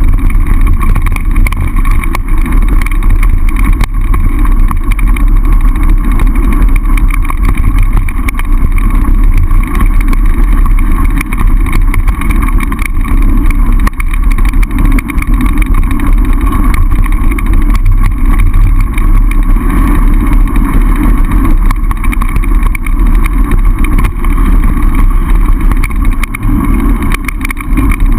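Loud, steady wind rush over the microphone of a camera riding on a mountain bike going downhill, with frequent small jolts from the rough ground.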